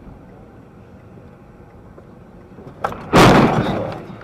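Steady vehicle running noise, then near the end a sharp knock and a sudden loud crash that dies away over about a second: a car collision impact.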